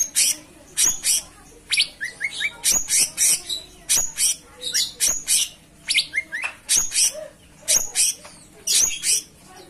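Grey-cheeked bulbul (cucak cungkok) singing without pause: bursts of sharp, high, sweeping chirps about once a second, with short rising notes strung in quick series.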